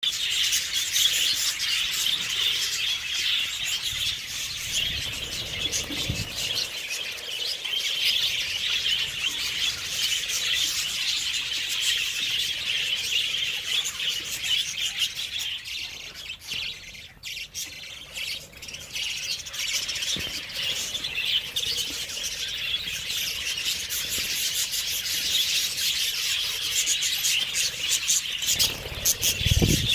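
Many small birds chirping and twittering over one another in a dense, continuous chorus. The chorus thins for a moment past the middle. A brief low rumble comes at about five seconds and again near the end.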